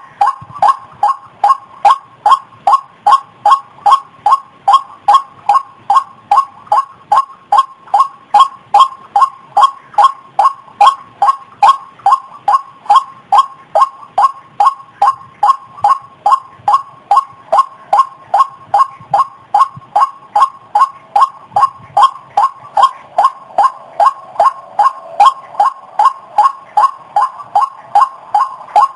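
White-breasted waterhen (ruak-ruak) call played as a bird-lure recording: one short note repeated evenly, about two and a half times a second, without a break.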